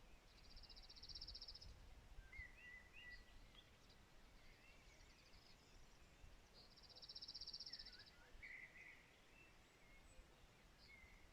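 Faint outdoor birdsong: a fast, buzzy, evenly pulsed high trill lasting a little over a second comes twice, about six seconds apart. Short chirps and whistles sound between the trills, over a low rumble.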